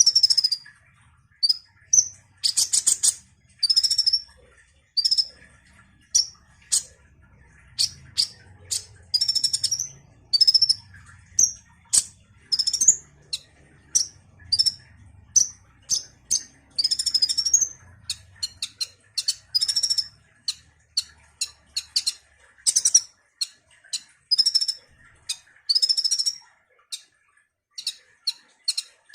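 Sunbird (kolibri) singing: a long run of short, high-pitched chirps and quick trills, repeated with brief pauses.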